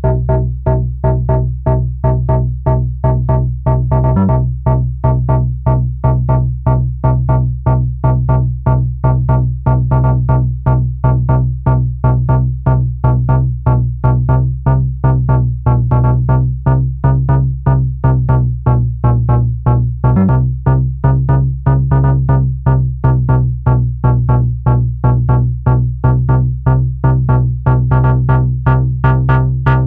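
Malekko Manther monophonic analog synthesizer playing a repeating sequence of short notes, about four a second, over a steady bass. The sound turns much brighter near the end as a parameter is tweaked.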